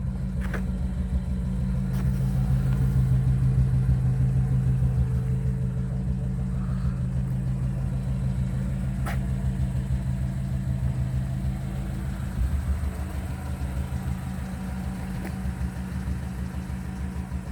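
1962 Ford Consul 375's four-cylinder engine idling steadily.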